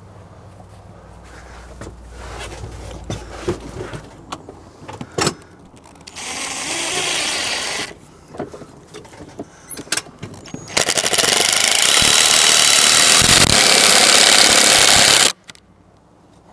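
Power drill driving screws into wooden fence boards: a short run of about two seconds, then a longer, louder run of about four seconds that cuts off suddenly. Small knocks from handling the boards come before it.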